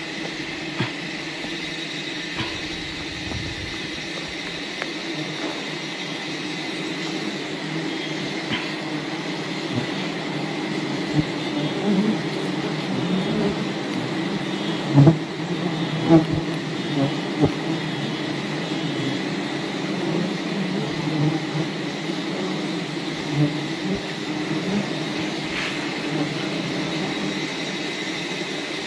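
Swarm of wild bees buzzing steadily around their hive, a dense continuous hum, with a few brief knocks about halfway through.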